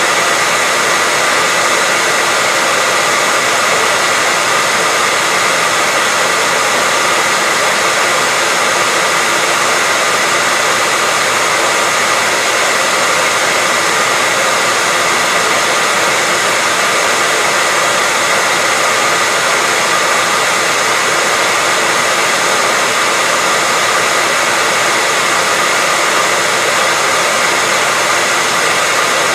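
Hair dryer running steadily, an unbroken rushing airflow with a faint constant whine from its motor, played as white noise for sleep.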